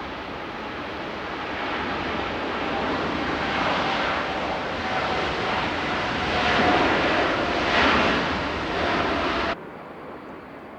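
Jet airliner's engines passing close, a rumbling roar with a faint steady whine that grows louder, then cuts off suddenly near the end.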